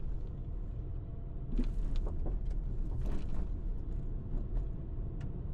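Car running along a road, heard from inside the cabin: a steady low rumble of engine and tyres, with a few faint knocks and rattles about two and three seconds in.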